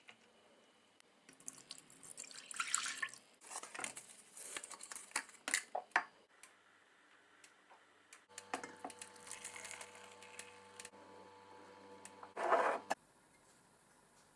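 Household handling sounds with water: a run of clicks, knocks and short rustles, then a steady electric hum for about four seconds that cuts off abruptly after a brief louder burst.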